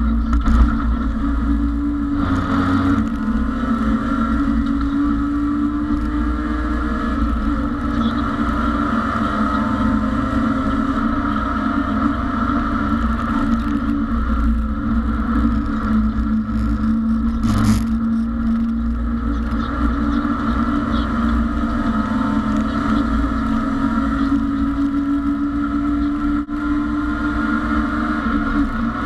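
BMW E30 race car's engine heard from inside the cabin, running hard at high revs under racing load, its pitch rising and falling a little as the throttle is worked. A brief sharp knock cuts through about eighteen seconds in.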